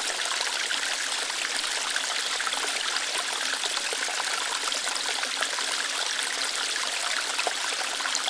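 Small waterfall splashing lightly over rocks: a steady rushing hiss of water, flecked with many small splashes.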